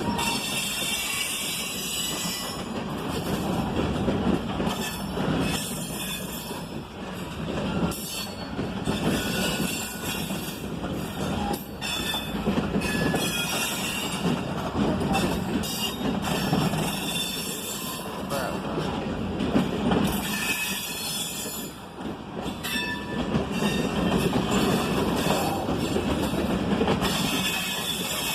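Freight train of loaded ballast cars rolling past, the wheels clacking over rail joints, with high wheel squeal coming and going.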